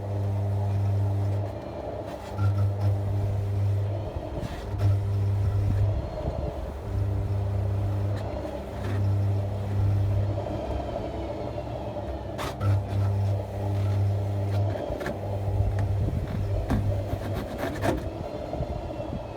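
Hoover Nextra washing machine's drum motor labouring under overload as a shoe is forced against the drum to stall it. A heavy hum swells and drops every couple of seconds over a steady machine whine. Sharp knocks and clatter come in the later part.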